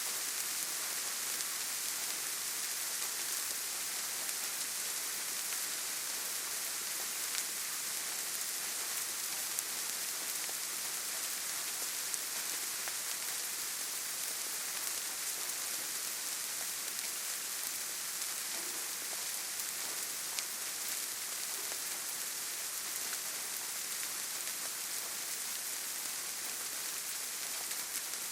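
Steady gentle rain falling on leaves and forest ground: an even hiss with a few scattered drop ticks.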